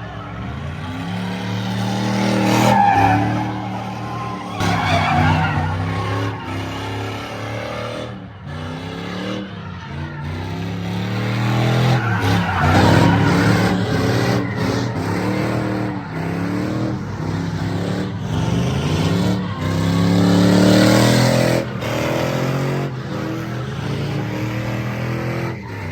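Truck engine revving up and down again and again, with tires squealing on pavement as in burnouts or donuts. The loudest surges come about 3, 13 and 21 seconds in.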